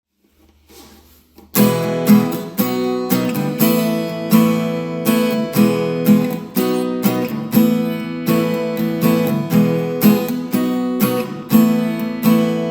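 Recorded music: a strummed acoustic guitar playing a steady rhythm, coming in loudly about a second and a half in after a faint lead-in.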